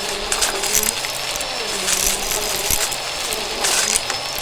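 Vacuum cleaner running steadily with a thin high motor whine, its pitch wavering slightly, overlaid by irregular rattling clicks.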